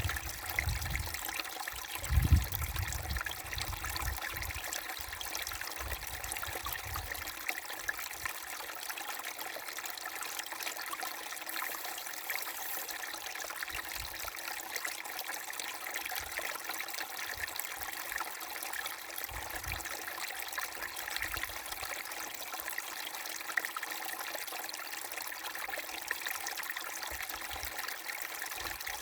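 A babbling brook: water trickling and splashing in a steady, even rush. A brief low rumble about two seconds in.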